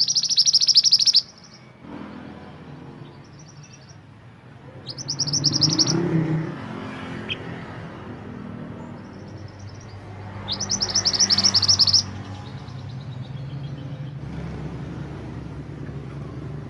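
A mantenan gunung songbird singing: three loud bursts of rapid, high trilling notes, one at the start, one about five seconds in and one about ten seconds in, with fainter short phrases between them. A steady low rumble runs underneath.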